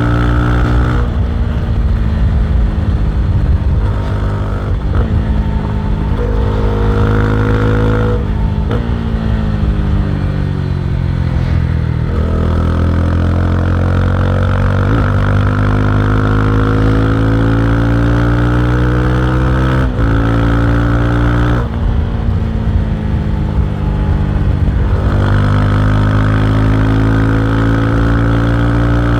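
Honda CB300R's single-cylinder engine and exhaust running, its pitch rising and falling slowly. It sinks for a few seconds, then climbs steadily for about eight seconds, with sudden drops in pitch about 8 seconds in, about 20 seconds in and just after.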